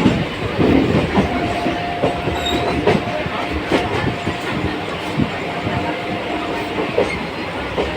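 Train running along the track, its wheels clicking and knocking over rail joints over a continuous rumble. A steady high hum comes in about a second in and stops near the end.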